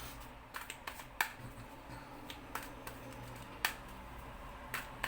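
Tarot cards being handled and drawn from the deck: a series of sharp, separate card clicks and taps at irregular intervals, about eight in all.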